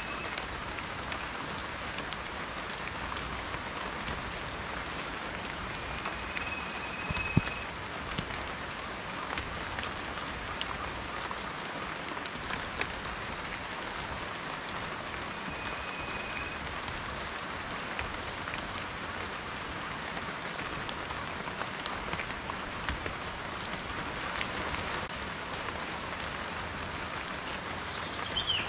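Steady rain falling, with a continuous patter and individual drops ticking on a surface; one drop lands louder about seven seconds in. Brief faint whistled notes and a short chirp come through the rain near the end.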